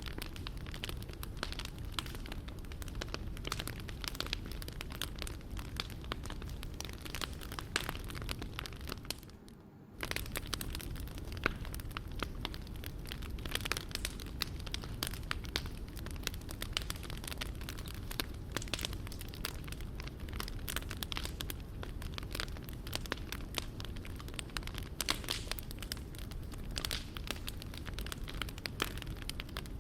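Wood fire crackling and snapping steadily over a low rumble of flames. Just before ten seconds in it briefly goes quieter, then comes back suddenly.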